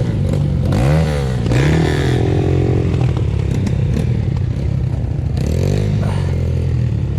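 Enduro trail motorcycle engine running, with the throttle blipped in short revs about a second in, again near two seconds, and once more near the end.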